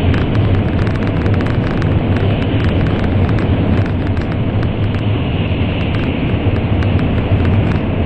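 N700 series Shinkansen running at speed through a tunnel, heard from inside the passenger car: a loud, steady deep roar with frequent small ticks and rattles.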